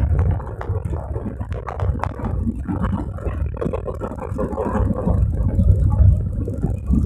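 Low, uneven rumble inside an airliner cabin as the plane rolls along the runway after touchdown, with scattered light clicks and rattles.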